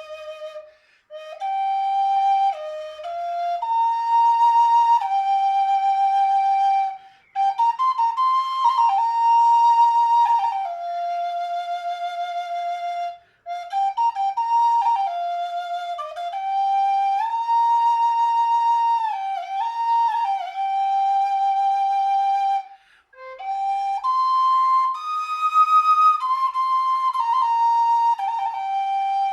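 A solo flute playing a slow melody of long held notes with small ornaments, pausing briefly for breath between phrases.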